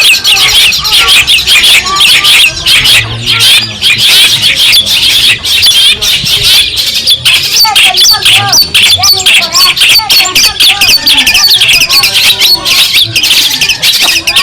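Long-tailed shrike (cendet) singing a continuous, loud, rapid chattering song of harsh high notes, with lower warbled phrases woven through it.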